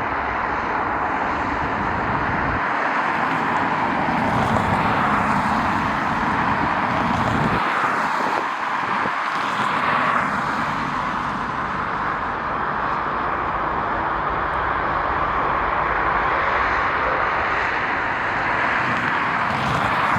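Jet airliner engines: a steady rushing noise with a low rumble underneath.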